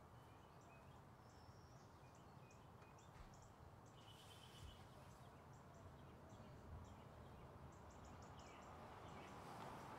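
Near silence: faint outdoor ambience with scattered short bird chirps over a low steady background hum.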